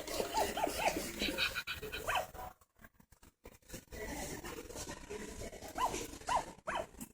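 Puppy whimpering in short rising-and-falling whines, several quick ones at the start, then a quiet gap and two more near the end.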